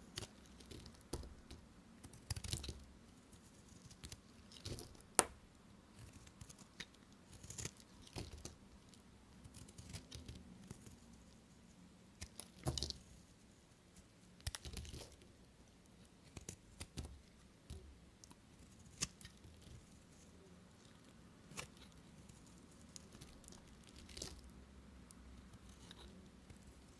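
Bars of soap being handled and cut by hand: irregular soft scrapes, crackles and sharp clicks, with one louder sharp click about five seconds in.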